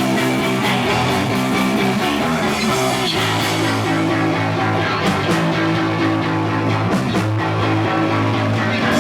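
A punk rock band playing live, loud, with electric guitar to the fore.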